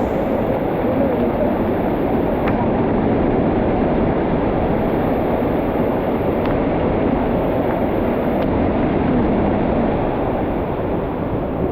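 Steady rush of falling water from a waterfall in a mountain ravine, dull and muffled, with a few faint ticks.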